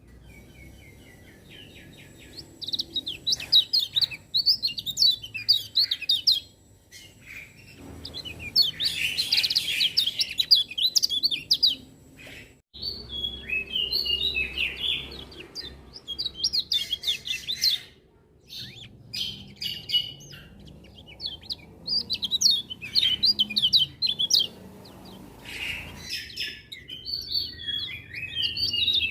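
Kecial kuning white-eyes singing: rapid, high twittering phrases a few seconds long, broken by short pauses, the loudest stretch about nine seconds in.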